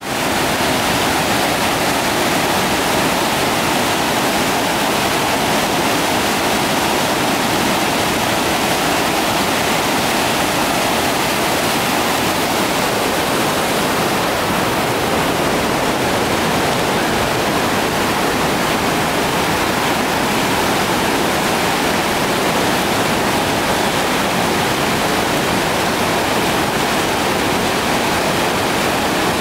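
River water pouring down a series of waterfall cascades: a loud, steady rush that never lets up.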